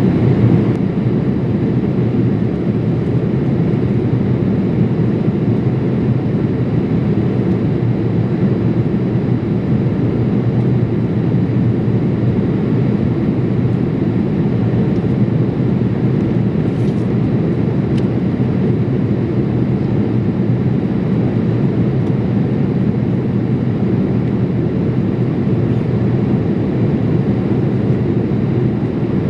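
Steady cabin noise of a Boeing 787-8 airliner in flight: an even, low rush of engine and airflow that holds constant throughout.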